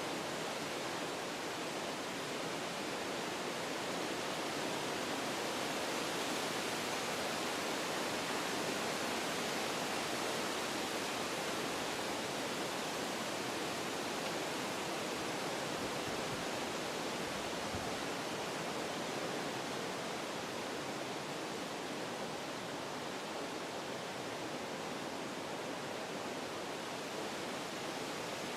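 Wind blowing through forest trees: a steady rushing of leaves and branches that swells a little in the first third, then eases slightly.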